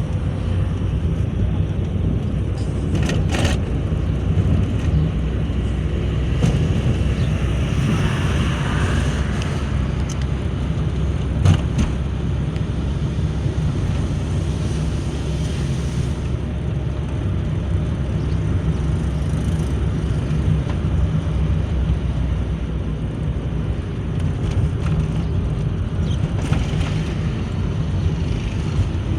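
Steady low rumble of a car driving, with a couple of brief knocks.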